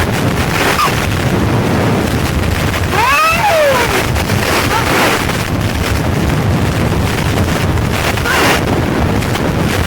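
Strong wind buffeting the microphone, a loud steady rumble. About three seconds in, a brief high call rises and falls over it.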